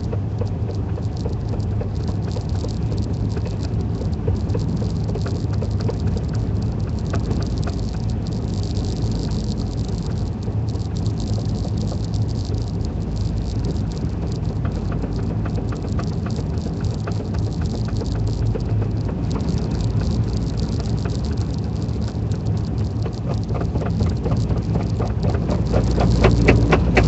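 Road noise heard from inside a vehicle driving on a snow-covered road: a steady low rumble with a constant patter of small crackles, rising in loudness near the end.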